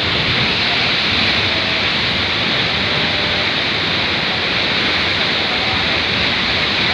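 Waterfall pouring heavily into its pool, a loud steady rush of water. The falls are running strong with much more water than usual.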